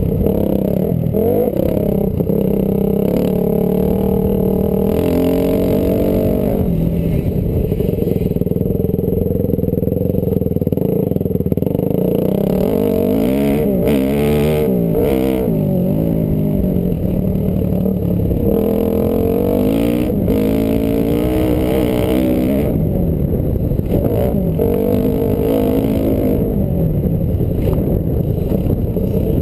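Honda CRF250R four-stroke single-cylinder dirt bike engine being ridden hard, its pitch rising and falling over and over as the throttle opens and closes.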